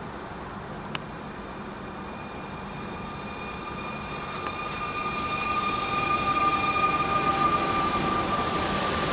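A regional electric multiple-unit train arriving through a curve at low speed, its running noise growing louder as it draws close and passes. From about three seconds in, a steady high-pitched squeal of the wheels on the curved track rises with it. A single sharp click comes about a second in.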